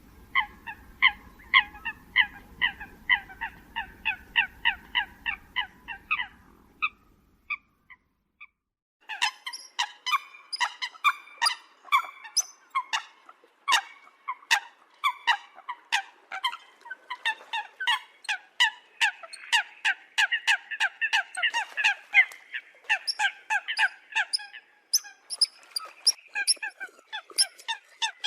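Eurasian coots calling: a quick series of short, nasal, honking calls, about three a second, breaks off after about seven seconds. Denser, overlapping calls start up again about nine seconds in.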